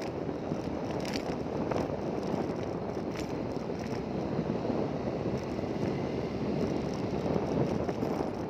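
Steady wind buffeting the microphone over an even rumble, as when riding in a moving vehicle or boat.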